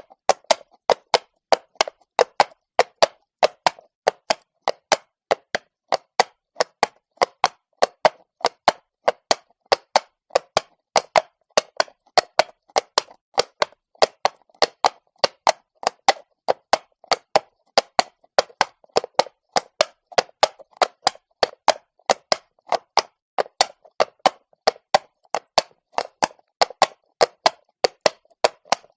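Horse's shod hooves walking on stone, a steady train of sharp clops at about three a second, sometimes in close pairs.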